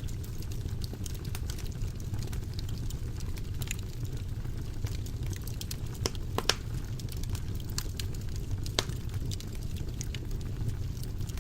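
Wood fire burning in a fireplace: a steady low rumble of flames with scattered sharp crackles and pops, the loudest pops about six and a half seconds and nine seconds in.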